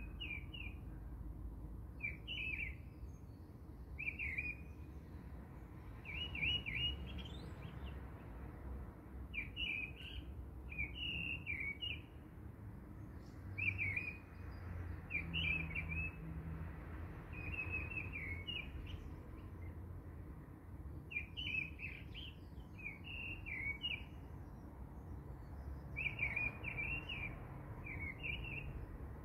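Songbirds chirping in short, repeated phrases, one every second or two, over a low background rumble.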